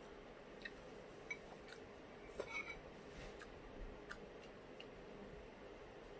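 Faint eating sounds: scattered soft mouth clicks of someone chewing food, with a short louder cluster about two and a half seconds in.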